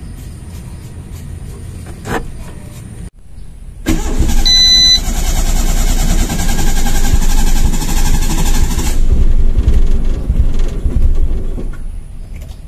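Daihatsu Charade car engine running, then, after a short break, a much louder stretch of engine noise lasting about five seconds, with a brief high beep near its start, before it eases off toward the end.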